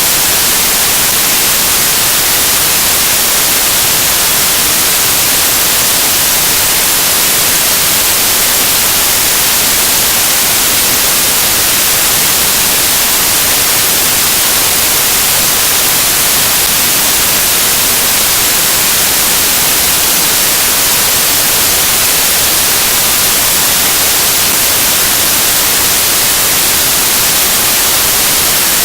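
Loud, steady static hiss like white noise, brightest in the treble, with no other sound and no change throughout.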